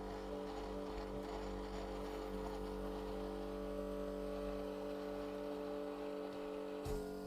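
Steady electrical hum made of several even tones, with a brief knock near the end.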